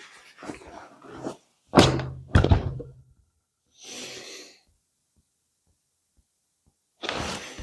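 A few soft knocks, then two heavy thuds about half a second apart, followed by a brief hissing rustle; after a pause, a short noisy burst near the end.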